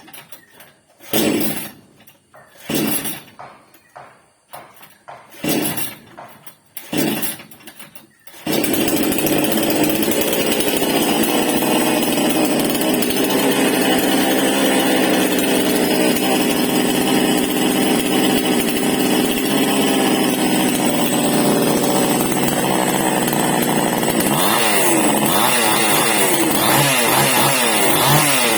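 Two-stroke chainsaw being pull-started: about five short bursts as the starter cord is yanked, then the engine catches about eight seconds in and keeps running. Near the end its pitch swings up and down as the throttle is worked.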